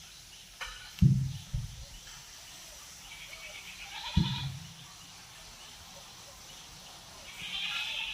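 Bleating calls, with a longer one starting near the end, and two heavy low thumps, about a second in and about four seconds in.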